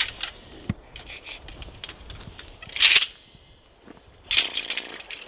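Metal fence-repair tools and wire being handled: scattered light clinks and clicks, with two louder rasping scrapes about three seconds and four and a half seconds in.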